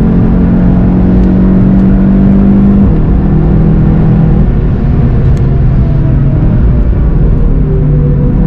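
Volkswagen Golf GTI TCR's turbocharged four-cylinder engine heard from inside the car, pulling hard under acceleration with a break in pitch about three seconds in, then falling in pitch as the car slows for a corner.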